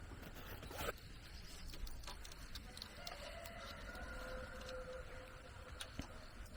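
A rooster crowing faintly, one drawn-out crow from about three seconds in, with a single light knock near the start.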